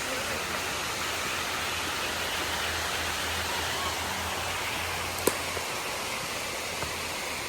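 Steady rushing of flowing water from a creek and waterfall, an even hiss with no breaks. A single sharp click about five seconds in.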